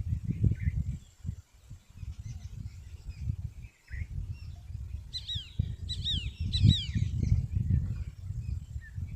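A small bird chirping a quick run of about six sharp, falling notes about five seconds in, over a steady low rumbling noise.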